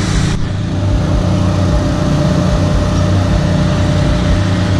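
A steady, loud, low engine drone that holds even throughout.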